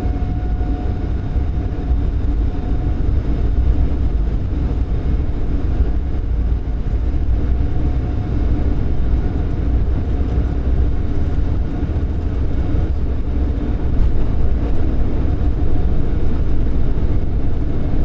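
Boeing 747-8 on its takeoff roll at takeoff thrust, heard in the cockpit: a loud, steady deep rumble from the engines and the wheels on the runway as the jet accelerates toward rotation speed.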